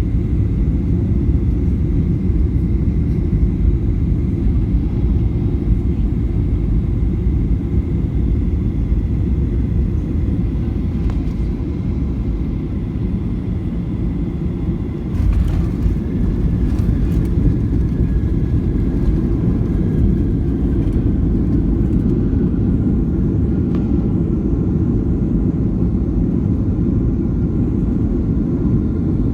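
Steady low rumble of an airliner cabin in flight: jet engine and airflow noise with a faint high whine. A brief knock about fifteen seconds in.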